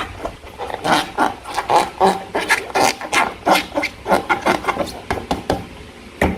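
Slime being squeezed and pulled by hand: a quick, irregular run of short squelchy clicks and pops, thinning out near the end.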